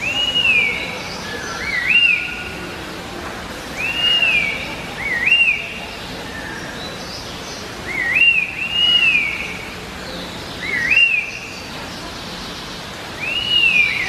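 A laughingthrush singing a clear whistled phrase, an arched slurred whistle paired with a quick upswept hook, repeated five times about every three seconds.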